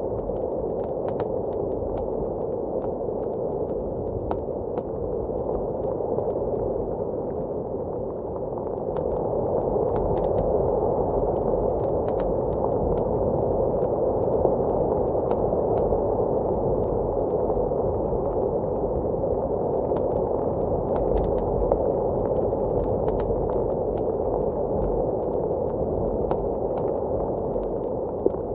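Blizzard wind blowing steadily, heard muffled as from indoors, swelling a little about a third of the way in, with the sparse sharp pops and crackles of a wood fire over it.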